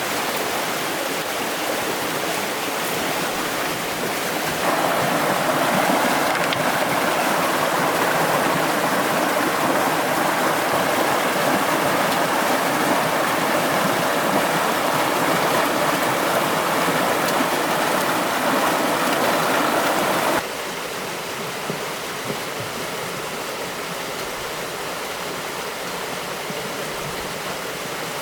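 Rushing stream water, a steady rush that grows louder about five seconds in and drops back suddenly about twenty seconds in.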